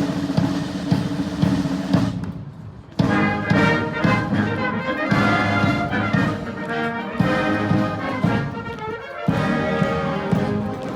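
Military band of brass and drums playing: a loud chord strikes at the start and dies away, then after a short pause about three seconds in the full band plays on over a regular drum beat.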